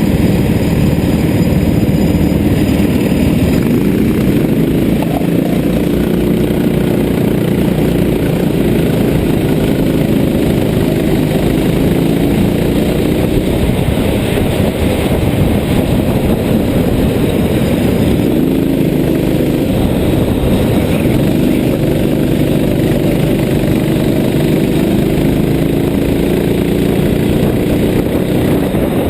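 A vehicle engine running steadily, its pitch drifting slowly up and down.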